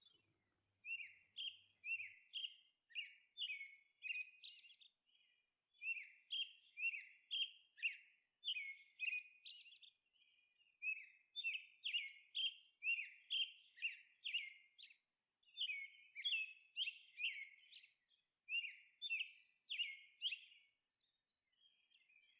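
Faint bird chirping: short, high chirps in quick runs of three to five, each dropping slightly in pitch, with short pauses between the runs.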